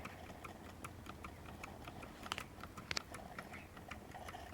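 A Mamod SP6 miniature stationary steam engine running slowly, with a quick, even, light ticking of about four or five clicks a second. Two sharper clicks come a little past the middle.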